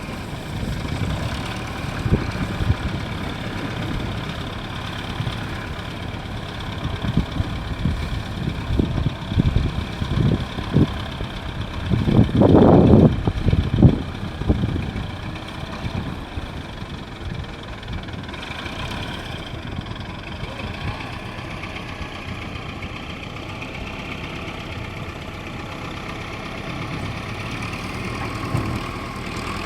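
A heavy equipment engine (excavator or bulldozer) runs steadily, with a run of irregular low thumps and knocks in the first half that are loudest about twelve to fourteen seconds in.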